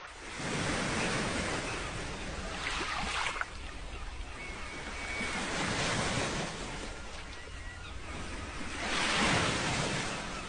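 Sea waves washing in and receding, the hiss swelling and fading several times, with wind buffeting the microphone.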